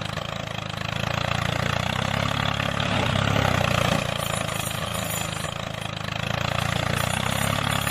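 Small motor of a DIY miniature tractor running steadily, with a low hum that swells and eases slightly.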